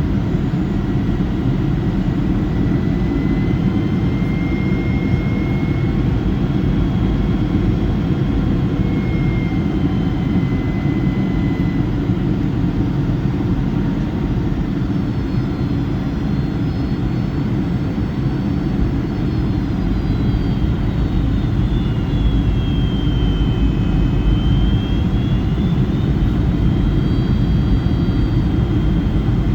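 Boeing 757-200 jet engines heard from inside the cabin on approach: a steady heavy rumble with high whining engine tones that drift slowly in pitch as thrust changes, dipping in the second half and rising again near the end.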